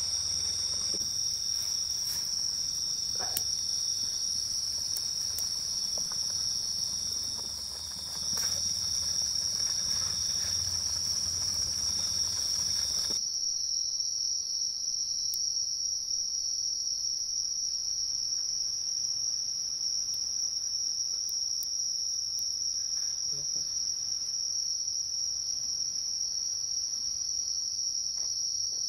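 Night insect chorus: a steady, unbroken high-pitched trill. Faint low background noise under it drops away abruptly about halfway through.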